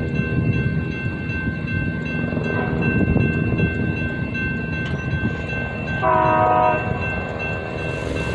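Union Pacific manifest freight train rumbling past on the rails, with a short locomotive horn blast about six seconds in.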